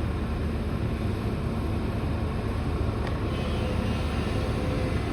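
Steady low mechanical rumble of running engines, with no crunching or impacts.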